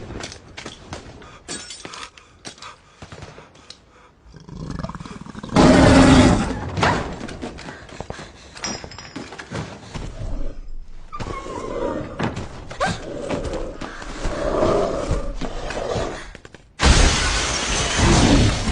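Film action sound effects: scattered knocks and two loud sudden crashes of something breaking, about five and a half seconds in and near the end, with animal growls in between.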